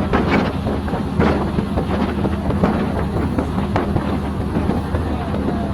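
Passenger train on the move: a steady low rumble with frequent sharp knocks and rattles, and wind buffeting the microphone.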